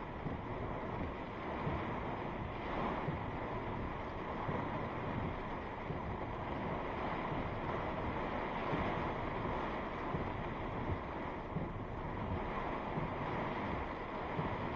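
Strong thunderstorm wind rushing steadily, with gusts buffeting the microphone and small surges in loudness throughout.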